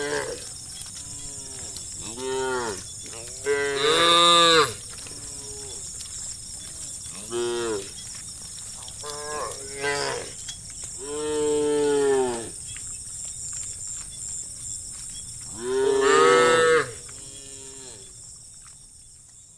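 A herd of cattle mooing, one long call after another from several cows, some loud and others fainter. The loudest moos come about four, eleven and sixteen seconds in. A steady high hiss runs underneath, and the sound fades out near the end.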